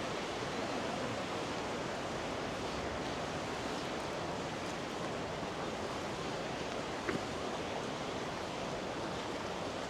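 Steady rush of river water flowing over rocks, with one brief click about seven seconds in.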